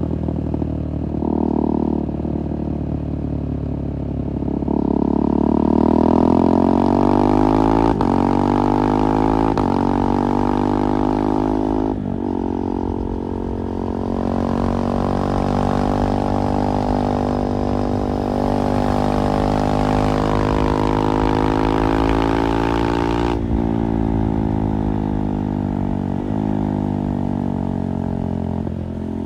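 2024 KTM 390 Duke's single-cylinder engine through an IXIL slip-on exhaust, under way and accelerating. Its pitch climbs and then drops sharply at several quick gear changes.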